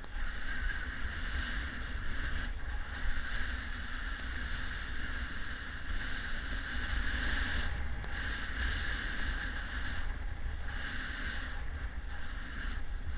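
Wind buffeting the microphone as an uneven low rumble over a steady rushing hiss of breaking surf.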